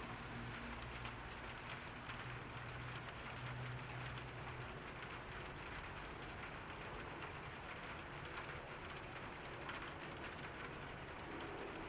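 Summer rain falling on a garden, a steady patter of many small drop ticks. A low hum sits under it for the first four seconds or so and then fades out.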